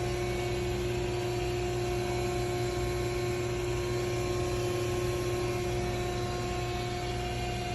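Euromac CNC punching machine running idle: a steady machine hum with several steady tones and no punch strokes.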